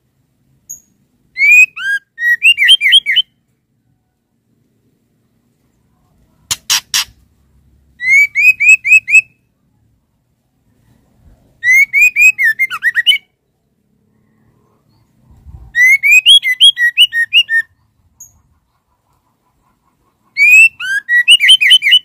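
Female white-rumped shama calling: five short phrases of quick, repeated chirps, each about a second and a half long and spaced a few seconds apart. A quick triple click sounds about a third of the way in.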